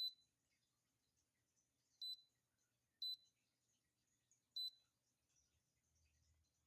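Electric travel kettle's electronic control panel beeping: four short, high-pitched beeps at uneven intervals, about two seconds in, three seconds in, and a little before the end of the first five seconds, as well as one right at the start.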